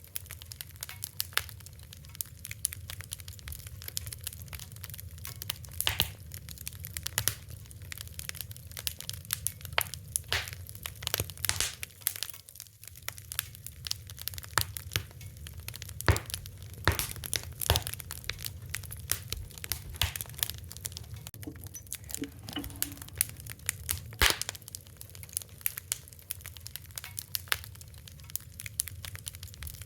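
Fire crackling: irregular sharp pops and snaps, some much louder than the rest, over a low steady rumble.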